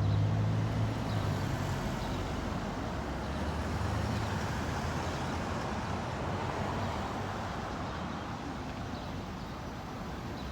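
A fire truck driving past on the road: a low engine rumble, loudest at the start, fades under steady traffic and tyre noise.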